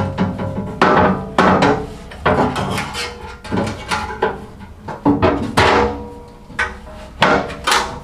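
Steel lining panels of a fireplace firebox being knocked loose and pulled out, a run of sharp metallic clanks with a ringing after each, roughly one every half second to a second.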